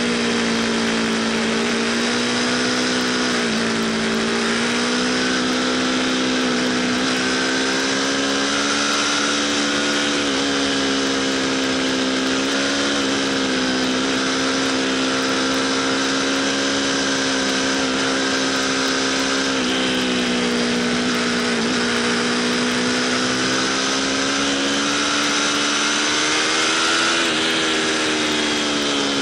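Aprilia RSV4 Factory's V4 engine pulling hard at high revs, heard from on the bike, with its pitch dipping briefly a handful of times. A steady rush of wind and road noise runs underneath.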